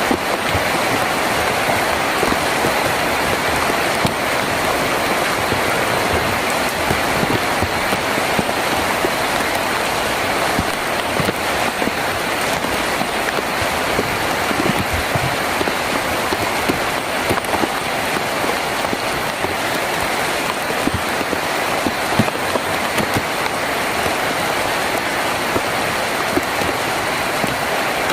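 Heavy rain drumming steadily on a tin roof, a dense even patter with many individual drops ticking through it.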